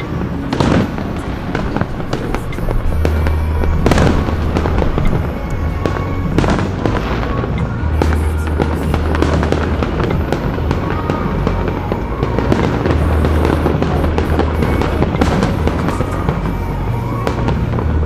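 Aerial fireworks going off: a string of sharp bangs from shell bursts at irregular intervals, the loudest about four seconds in, with music playing underneath.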